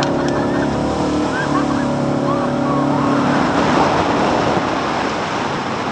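High-speed jet sprint boat's engine running steadily, then about three and a half seconds in a loud rush of water spray and wind takes over as the boat powers through its run.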